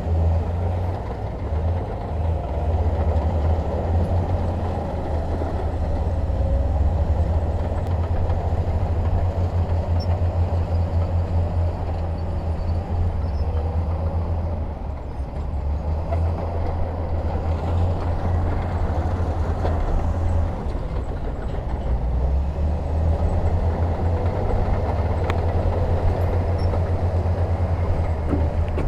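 Heavy diesel engine of earthmoving machinery running under steady work with a deep low rumble, its loudness swelling and easing slightly from moment to moment.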